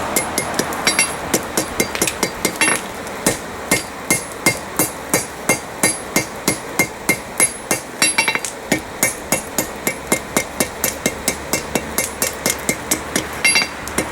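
Hammer blows on hot steel over an anvil, about two to three a second with a bright ring after each strike and a few quick flurries of taps: the head of a railroad spike being flattened into a solid mass at the forge.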